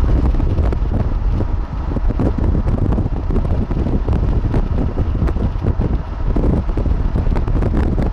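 Wind buffeting the microphone: a loud, steady, gusty rumble with a few faint clicks.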